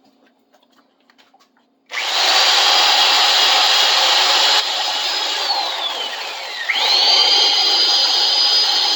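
Electric drill spinning a wire wheel against a painted metal tool to strip the paint. It starts suddenly about two seconds in with a high whine. The whine slides down in pitch as the drill slows under load, then quickly speeds back up and runs steadily.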